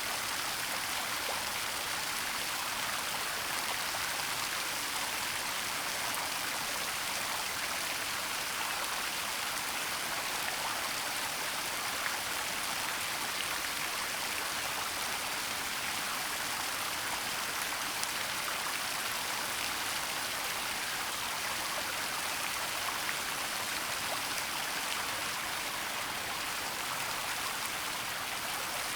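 Waterfall and stream water rushing steadily, a constant hiss with faint droplet splashes.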